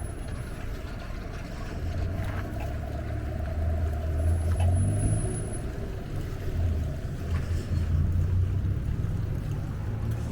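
Riding noise from a bicycle in motion: an uneven low rumble of wind on the microphone and tyres on the path, swelling and easing. A faint thin high tone sounds briefly about halfway through.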